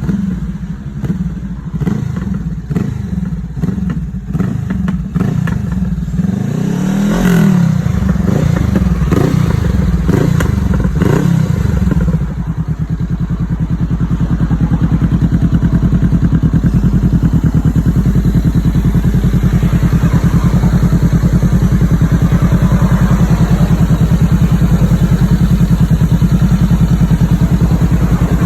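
Honda CBR500R parallel-twin engine running through an aftermarket 2.5-inch titanium slip-on exhaust, blipped and revved up and down for the first dozen seconds, then settling into a steady, even run for the rest.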